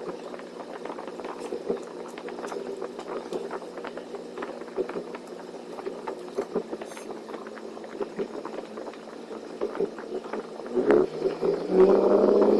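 Semi-truck engine droning steadily as heard inside the cab while driving, with many small ticks and clicks over it. Near the end the engine gets louder and its pitch rises a little as it pulls harder.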